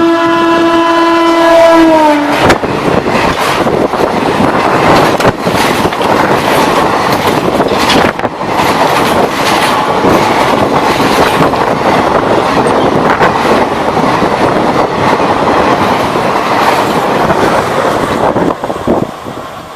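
An Indian Railways electric locomotive sounds its horn for about two seconds. The horn drops in pitch as it cuts off. An express train then passes close by at speed: a loud rush of wheels on rail with the clickety-clack of the coaches over the rail joints, easing near the end.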